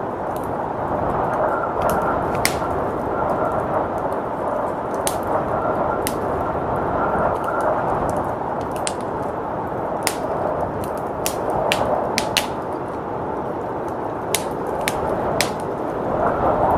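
Wood fire crackling, with sharp irregular pops every second or so, over a steady rush of blizzard wind.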